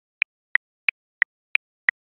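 Metronome clicking at 180 beats per minute, about three clicks a second, alternating between two slightly different pitches, with silence between the clicks.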